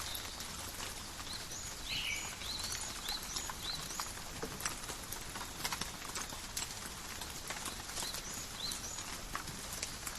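Calm, steady rain in a forest, with drops falling on leaves as scattered sharp ticks. A bird gives a few short high chirps in the first few seconds and again near the end.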